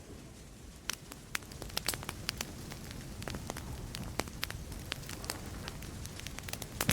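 Burning wood fire crackling, with many sharp separate pops over a low steady rumble; a louder surge begins right at the end.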